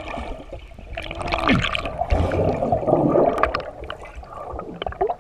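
Water sloshing and splashing, loudest for a few seconds in the middle, with a few sharp knocks mixed in.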